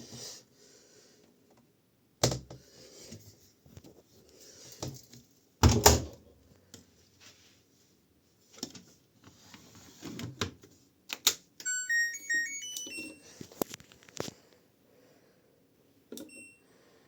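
Washing machine control panel giving a quick run of stepped electronic beeps, then one more short beep a few seconds later, amid knocks, clunks and rustling as the machine is handled.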